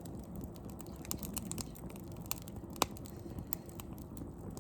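Wood bonfire crackling, with irregular sharp pops and one louder pop a little past halfway.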